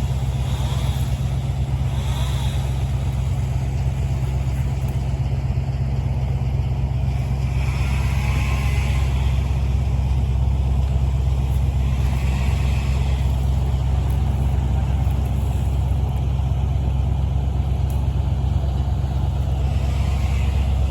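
A large engine running steadily with a deep, even rumble.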